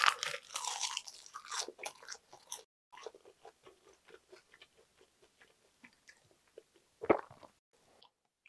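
Close-up eating sounds of biting into a wrap of crisp seasoned laver (gim): a loud crackling crunch over the first couple of seconds. Then softer chewing with small wet mouth clicks, and one louder mouth sound about seven seconds in.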